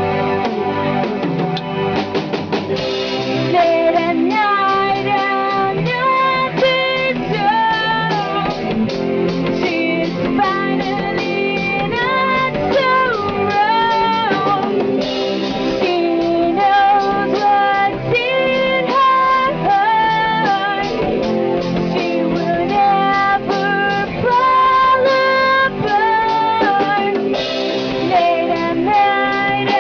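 Band music: guitar and drum kit under a sustained lead melody that holds notes and bends between them.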